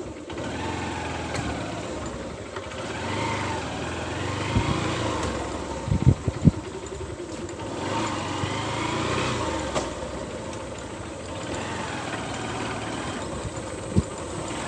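A vehicle engine running steadily, its pitch rising and falling several times, with a few sharp knocks about six seconds in.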